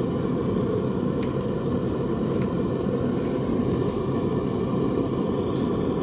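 Forge running with a steady low rush, a few faint ticks over it, while metal heats.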